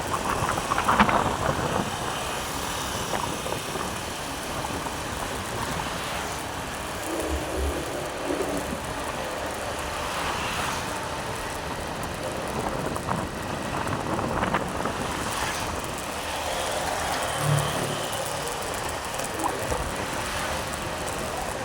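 Steady road noise and wind on the microphone from a motorcycle underway, with a few brief knocks along the way.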